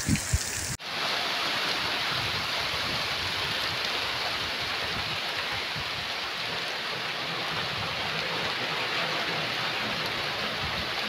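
Steady rain falling, an even hiss. There is an abrupt cut just under a second in, where one rain recording gives way to another.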